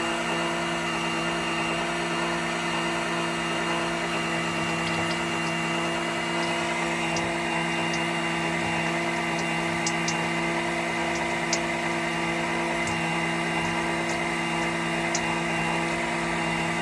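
Electric pump running at a steady speed, drawing engine oil out through the dipstick tube, with a few faint ticks along the way.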